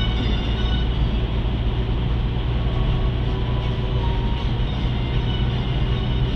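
Steady road and engine noise inside the cabin of a 2018 Hyundai Veloster 1.6T while driving, with a constant low hum under an even rush of tyre noise.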